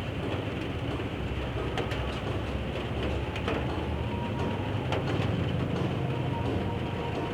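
Steady rain falling, with the low rumble of a train at the station platform and a few scattered clicks.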